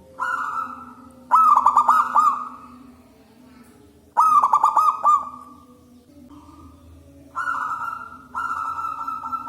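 Zebra dove (local perkutut) cooing loudly: a held note, then two phrases of quick rolling coos about three seconds apart, then two more drawn-out notes near the end.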